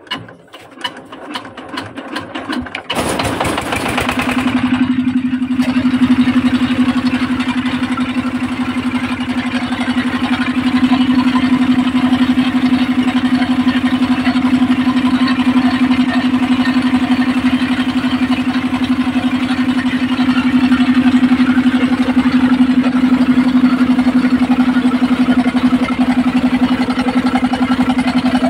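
Engine of a homemade belt-driven circular saw rig starting up: about three seconds of uneven chugging, then it catches and runs steadily. A steady hum joins about four seconds in as the rig comes up to speed.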